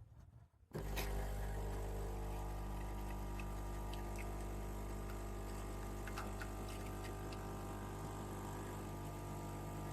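De'Longhi Dinamica Plus bean-to-cup espresso machine's pump starting up about a second in and running with a steady hum while it brews an espresso, with a few faint ticks.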